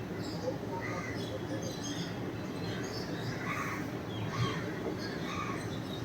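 Birds chirping in short scattered calls in the background, over a steady low hum of room noise.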